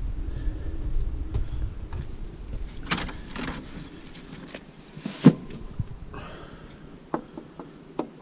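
Scrap and tip items being handled around a vehicle: a low rumble fades out over the first few seconds, then a few separate sharp knocks and clunks, the loudest about five seconds in.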